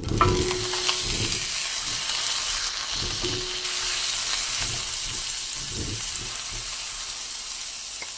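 Hot dogs sizzling in butter in a hot cast iron pie plate; the sizzle starts suddenly as they go in and eases off a little, with a few soft knocks.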